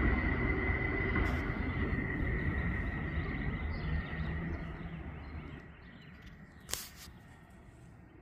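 Freight train rumbling past and fading away, a steady high-pitched tone fading out with it. A single sharp click about two-thirds of the way through.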